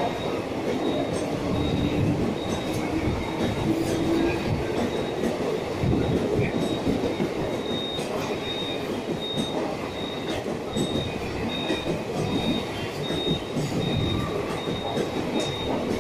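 Passenger train coaches rolling past: a steady rumble of wheels on rail with repeated clicks over the joints. A thin high-pitched squeal comes and goes about twice a second.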